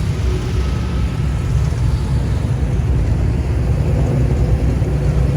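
Classic muscle-car engines running at idle, a steady low rumble.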